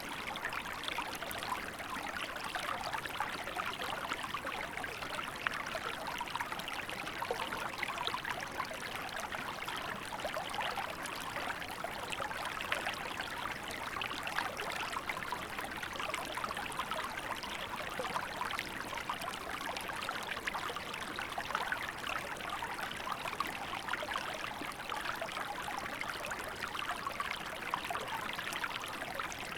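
A small river flowing steadily in winter, water babbling and trickling over stones.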